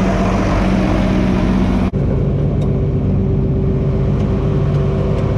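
John Deere 4320 tractor's six-cylinder diesel engine running under load while pushing with a front blade. About two seconds in the sound breaks off sharply for an instant, and the engine then runs on at a lower, steady pitch.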